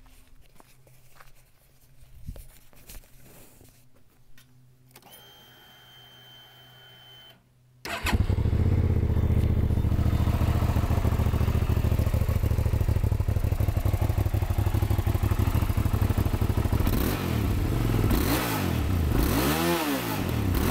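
Hyosung GT650R's 647 cc V-twin with a 2BRO aftermarket exhaust starting up about eight seconds in, then idling loudly and steadily. Before it starts there are a few faint clicks and a brief high, steady whine.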